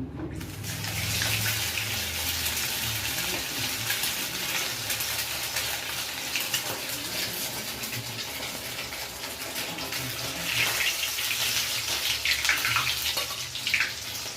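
Food frying in hot oil: a steady sizzle with crackling that starts suddenly as the food goes into the pan.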